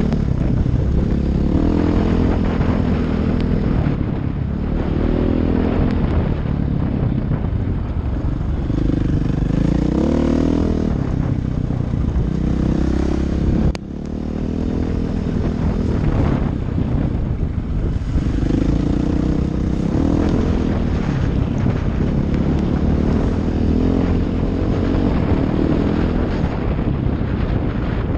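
Dirt bike engine running under way on a trail ride, the revs rising and falling over and over. There is a sharp click and a momentary drop about halfway through.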